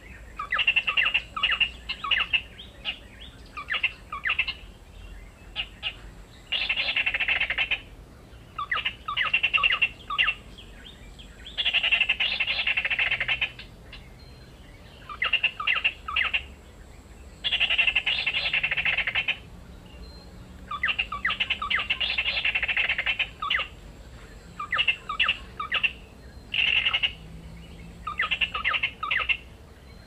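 Bold-striped tit-babbler (ciung air) calling: clusters of short sharp notes alternate with longer bursts of rapid chattering, each lasting one to three seconds, with brief pauses between.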